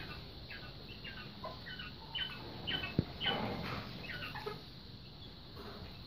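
A bird calling in a series of short, high chirps, about two a second, that die away after about four and a half seconds, with a single sharp knock about three seconds in.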